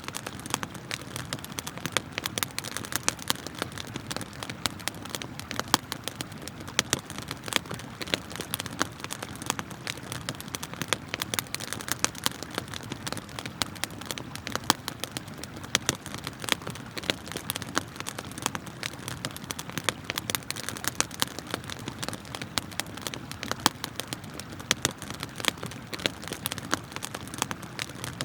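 Wood campfire crackling and popping, with many sharp snaps scattered throughout, over the steady rush of flowing river water.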